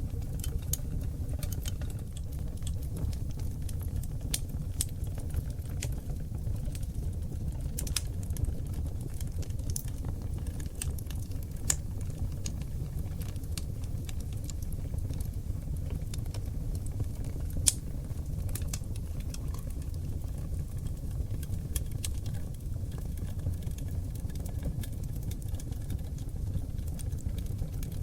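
Oak logs burning in a wood fireplace: a steady low rush of flames with frequent sharp crackles and pops, two of them louder, about twelve and eighteen seconds in.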